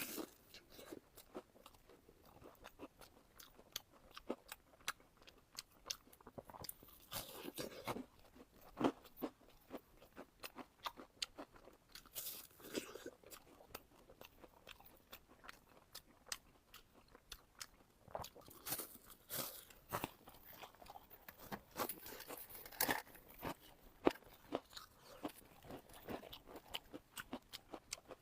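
Close-miked eating: repeated crunchy bites and chewing of food, many sharp crackles with louder crunching spells a few times.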